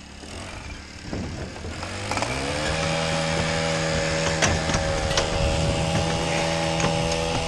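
Small petrol engine of a handheld lawn power tool spinning up from a low speed and then held at a steady high speed, with a few sharp ticks over it.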